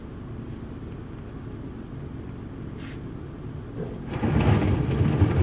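Automatic car wash running, heard from inside the car's cabin: a steady low rumble, then about four seconds in the next round of washing reaches the car and the noise gets much louder.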